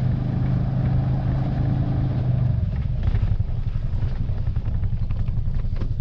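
A motor vehicle's engine running at a low, steady pitch. The note becomes less steady about two and a half seconds in.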